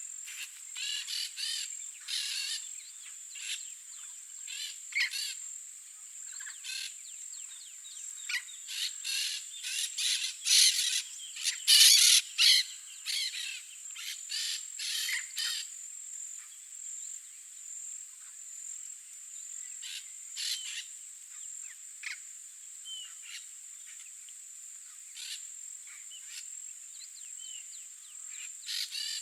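Yellow-faced parrots calling in repeated short, harsh squawks, in bouts that are loudest about ten to thirteen seconds in and sparser later. A steady high-pitched insect drone runs underneath.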